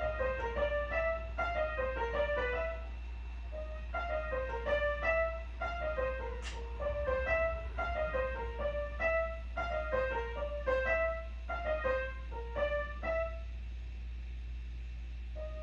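Piano music: a light, repeating melody of short notes that stops about two seconds before the end, over a steady low hum.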